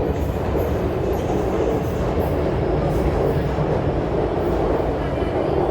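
MTR Q-train electric metro train running underground, with a steady, even noise of wheels and running gear on the track.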